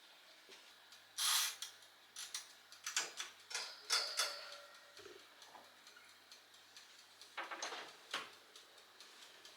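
Irregular light clicks and taps, the loudest a short rustling burst about a second in, with a few more clusters of clicks through the middle and near the end.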